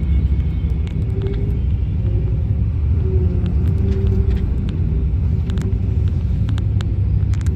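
Steady low rumble of a vehicle's engine and road noise, heard from inside while it drives, with a faint hum and scattered light clicks and rattles.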